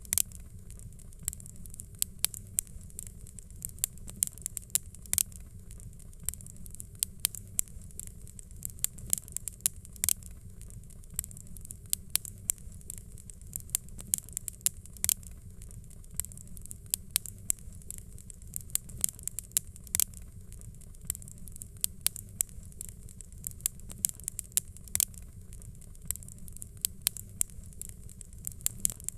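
Fireplace fire crackling: irregular sharp pops and snaps, a few each second, over a steady low rumble of the flames.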